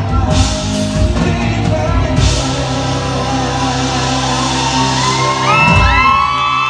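A live band and singer performing a pop-rock song, ending on a held chord, with high-pitched screams and whoops from the audience starting about five and a half seconds in.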